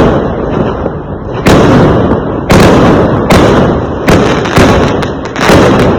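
Fireworks exploding: about seven loud bangs, half a second to a second apart, over a continuous crackling rumble.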